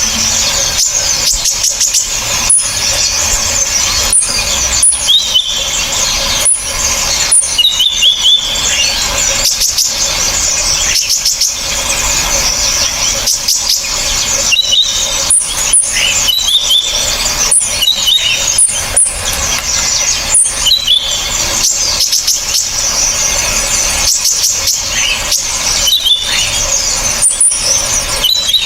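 A dense, shrill mix of small birds' calls for training songbirds, combining Van Hasselt's sunbird (kolibri ninja), blue-crowned hanging parrot (srindit) and woodpecker calls. Sharp high chirps and short piercing notes repeat over and over without a break.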